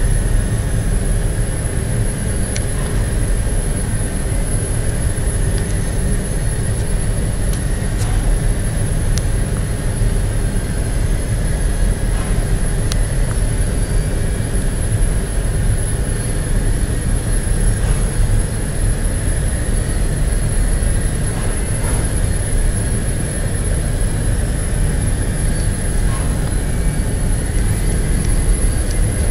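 Steady, loud industrial machinery drone, a deep even rumble with a constant thin high whine over it and a few faint ticks.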